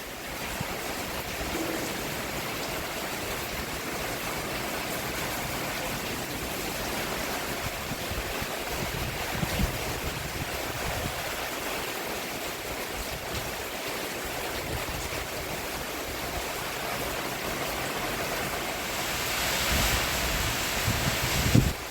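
Steady rain falling on a roof: an even hiss of drops that swells louder shortly before the end, with a few brief low thuds.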